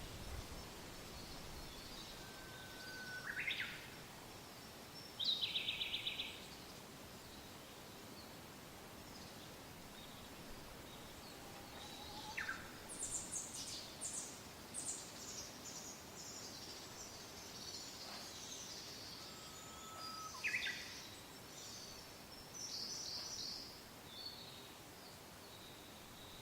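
Birds singing and calling over a steady soft wind. There are clear whistles that end in quick upward sweeps, a short fast trill about five seconds in that is the loudest sound, and a run of high, quick chirps through the middle and later part.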